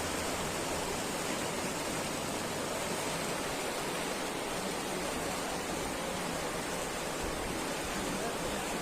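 Steady rushing of the Ziz river in flood, an even wash of fast water with no break or change.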